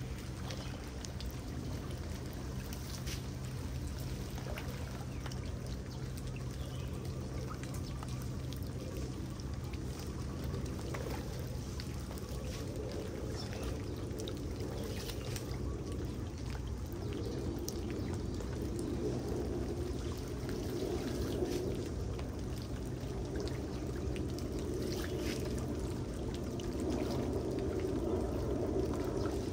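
Floodwater pouring into a street storm drain: a steady rush of water that grows fuller and a little louder in the second half.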